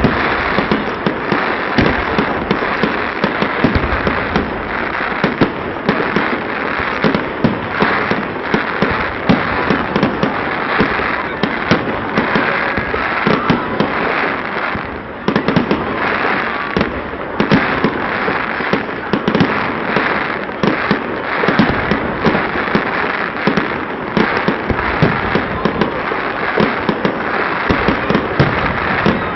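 Fireworks going off in a dense, continuous barrage of bangs and crackles. There is a short lull about halfway through, then the bursts pick up again.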